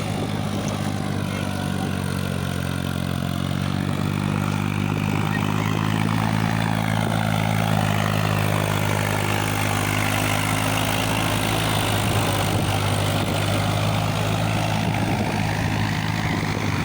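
Sonalika DI 47 RX tractor's diesel engine running steadily at an even pitch.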